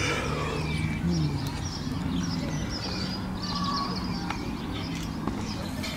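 Birds chirping and calling from the surrounding trees, many short high chirps, over a faint low murmur of distant voices.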